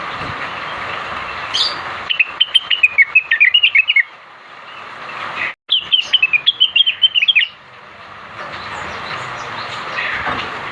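Blue-winged leafbird (cucak wilis) singing two quick phrases of rapid chattering notes, each about two seconds long, used as a lure song to prompt other cucak wilis to sing. A steady hiss runs underneath the song.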